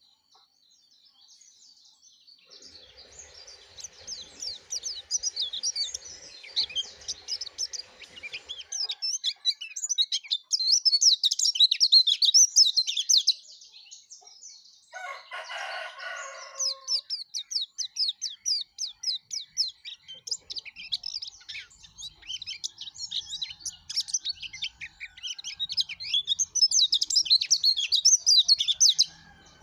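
Pleci dada kuning (yellow-breasted white-eye) singing a fast, high, twittering song in long unbroken runs, with a short pause about halfway. A brief lower call, likely a rooster, cuts in during the pause.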